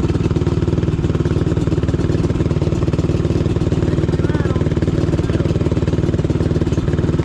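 Off-road vehicle engine running at a steady speed, its firing pulses even throughout.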